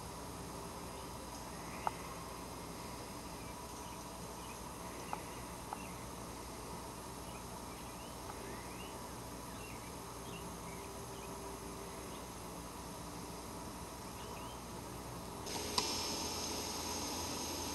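Faint outdoor birdsong: scattered short, high chirps over a steady background, with a few sharp clicks. About three-quarters of the way in, a louder steady hiss comes in.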